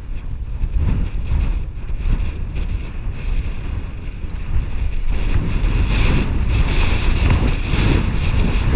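Wind buffeting the microphone of a camera riding along on a moving mountain bike, a dense low rumble that grows louder about five seconds in.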